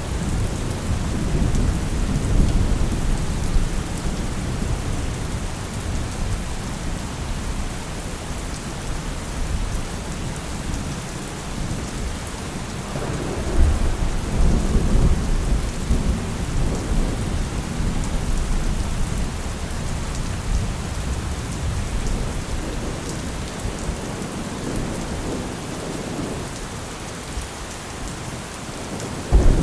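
Steady heavy rain with rolling thunder: deep rumbles that build and fade, loudest in the first few seconds and again about 13 seconds in.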